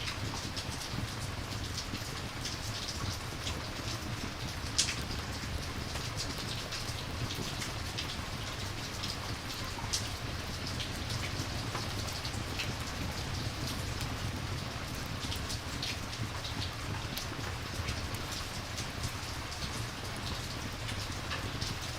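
Rain and campfire ambience: steady rain with many scattered sharp crackles, one louder snap about five seconds in.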